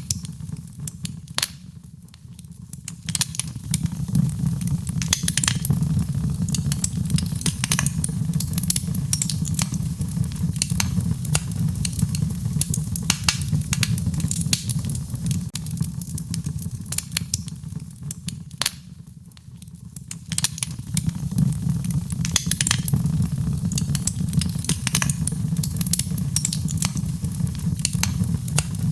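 Wood fire burning in a fireplace: a steady low rumble of flames with frequent sharp crackles and pops. The rumble fades briefly twice, about two seconds in and again about two-thirds of the way through.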